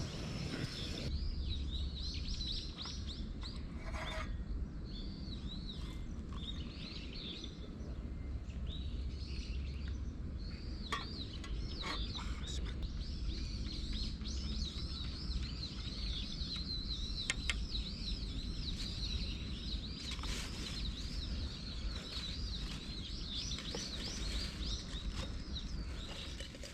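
Small birds chirping and calling continuously in many short, repeated arched notes, over a steady low rumble and a few faint clicks.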